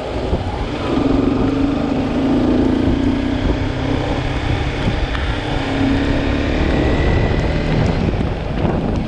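Motorcycle engine running at a steady pitch while riding, with wind buffeting the microphone.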